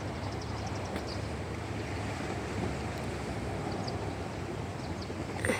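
Steady noise of a boat under way: a low engine hum with water and wind on the microphone, and a brief sharp knock near the end.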